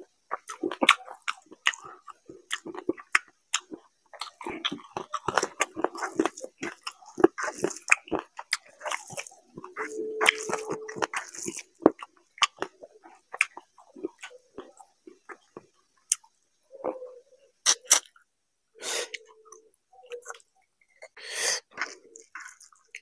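Close-miked chewing of mouthfuls of fried rice and fish curry: a dense run of small mouth clicks through the first half, sparser later.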